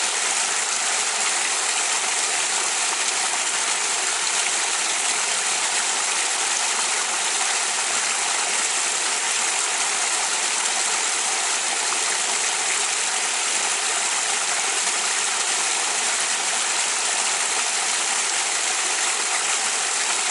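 Waterfall in a river: a steady, unbroken rush of falling water.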